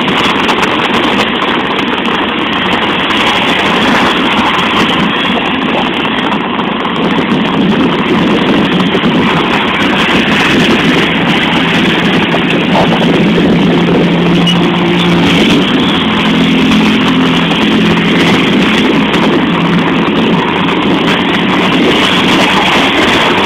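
Loud steady rushing of rain and wind on a phone microphone, with a vehicle engine's hum coming in about twelve seconds in and fading out around eighteen seconds.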